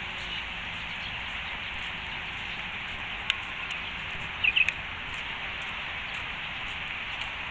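A bird chirping a quick group of two or three short notes about halfway through, over a steady outdoor hiss, with a single sharp tick a little earlier.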